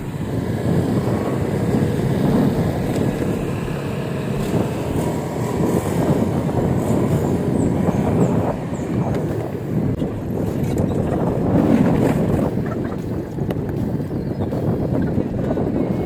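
Wind buffeting the microphone of a camera riding along on a moving e-bike: a steady, uneven rushing that rises and falls in strength.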